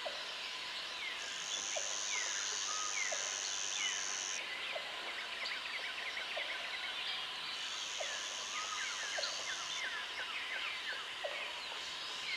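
Jungle ambience: a dense chorus of birds chirping and whistling, many short calls sweeping down in pitch. A high, steady insect buzz comes in for about three seconds early on and again for about two seconds past the middle. Short low calls repeat about once a second underneath.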